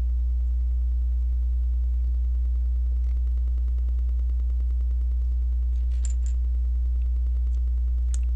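Steady low electrical hum, with a few faint clicks of LEGO plastic pieces being handled and pressed together: one about three seconds in, a small cluster near six seconds, and a sharper click near the end.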